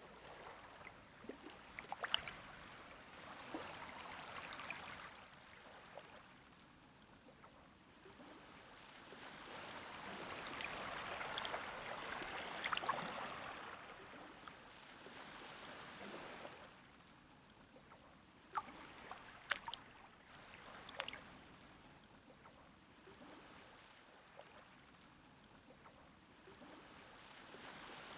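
Small waves lapping at the water's edge of a calm sea. Each gentle wash swells and fades, the largest about a third of the way in, with a few sharp crackling ticks as the water runs up the shore.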